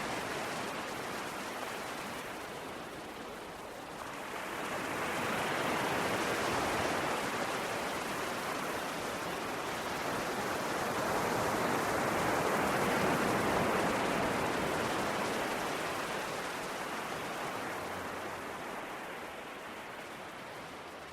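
Ocean waves washing ashore: a continuous rushing of surf that swells about four seconds in, builds again to its loudest near the middle, then eases off toward the end.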